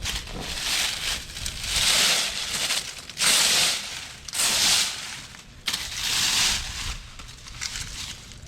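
Dry fallen leaves crunching and rustling in repeated swells, about six of them roughly a second apart.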